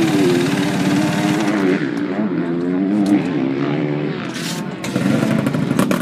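Engine and road noise of a moving car heard from inside the cabin, running steadily with a pitch that wavers.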